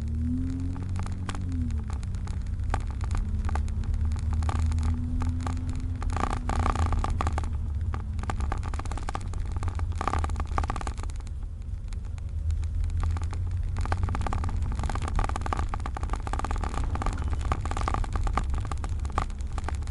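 Hyundai Veloster 1.4T turbo engine running under way, with the Engine Sound Equalizer adding a synthesized engine note inside the cabin. There is a steady low rumble, and the engine note rises and falls with the revs: it climbs and drops near the start, rises slowly a few seconds in, and climbs again just before the end.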